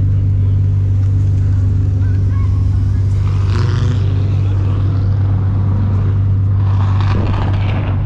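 Ford Mustang Shelby GT350's 5.2-litre flat-plane-crank V8, fitted with long-tube headers, idling with a steady deep drone.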